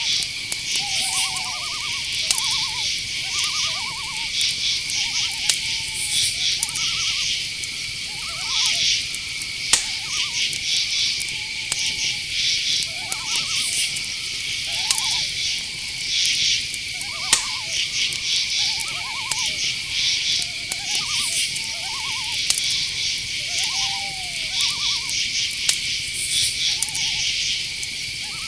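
Night chorus of crickets: a steady high trill with pulsing chirps above it. Through it come many short, arching mid-pitched calls, one or two a second, and a few sharp clicks.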